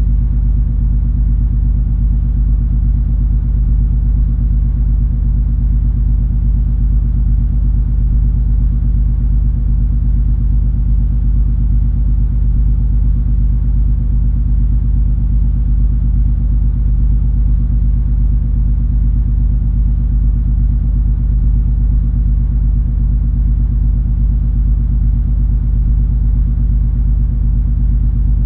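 Steady low drone of the cruise ferry MS Color Fantasy's engines and machinery while under way: an even rumble with a few held low hums and no change in level.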